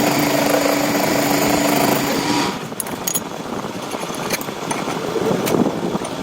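A lathe motor runs steadily with a humming tone, then shuts off abruptly about two and a half seconds in. Scattered clicks and knocks of metal handling follow.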